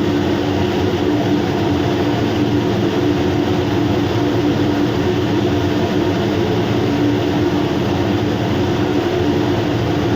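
Steady machinery drone with a constant low hum that does not change.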